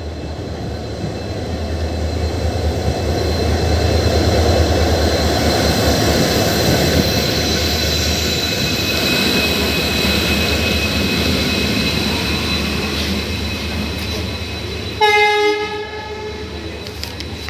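An Indian Railways train running past with a steady rumble and a thin, high steady whine from the wheels on the rails. About fifteen seconds in, a locomotive horn gives one short, loud blast.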